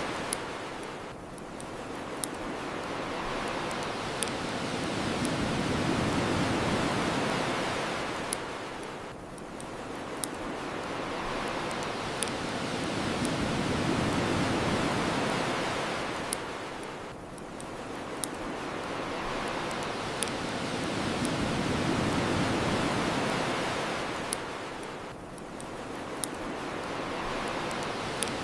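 Ocean waves washing onto a shore, swelling and drawing back about every eight seconds, with the scattered sharp crackles and pops of a bonfire.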